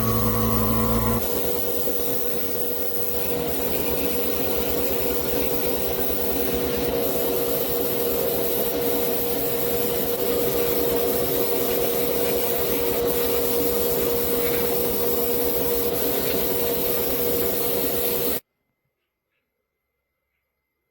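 A power tool running steadily with a continuous rasping, rubbing noise over a steady motor hum, typical of sanding or filing work. It cuts off abruptly near the end.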